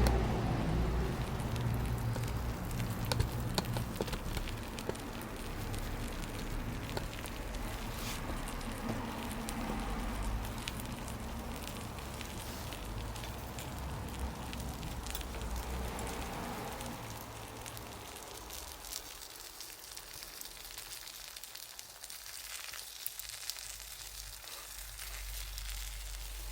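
Wood bonfire crackling, with scattered small pops and snaps, over a low steady rumble that fades after the middle.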